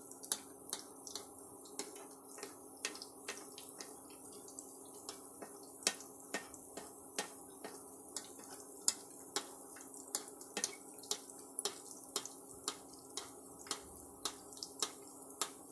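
A malpua shallow-frying in ghee in a pan: sharp, irregular pops and crackles of spattering ghee, about two or three a second, as hot ghee is spooned over its top, over a steady low hum.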